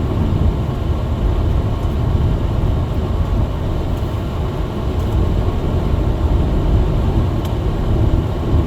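Steady low drone inside a small front-wheel-drive car driving on a snowy road: engine and tyre noise, even throughout.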